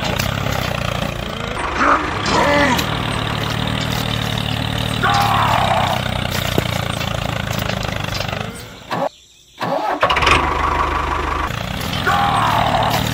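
Single-cylinder diesel walking-tractor engine running steadily, cutting out for about a second around nine seconds in and then starting up and running again.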